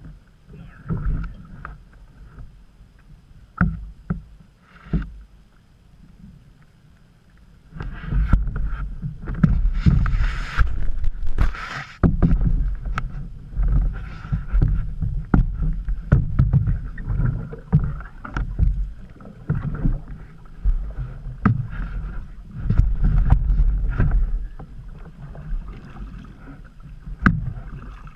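A canoe being paddled on a creek: splashy paddle strokes and sharp knocks of the paddle against the hull, over a low rumble that turns much louder about eight seconds in.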